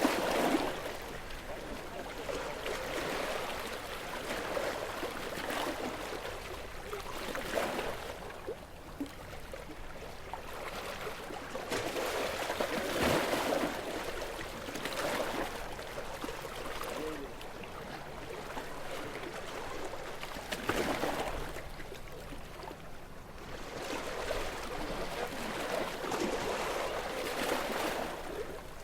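Gentle sea waves washing ashore, each wave swelling and fading away every few seconds.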